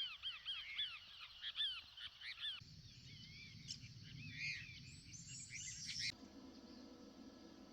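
Small birds singing faintly: quick repeated chirps, then from about two and a half seconds in a different, more warbling song over a low rumble. It cuts off about six seconds in, leaving a faint low hum.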